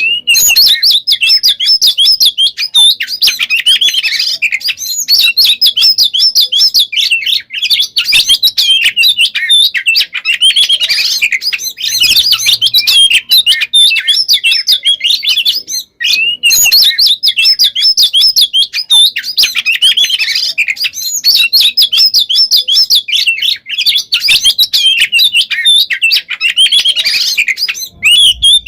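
Oriental magpie-robin (kacer) singing loud, dense, nonstop song: rapid varied whistles and trills run together with only a few brief breaks. This is the unbroken 'gacor konslet' delivery, a male in full song.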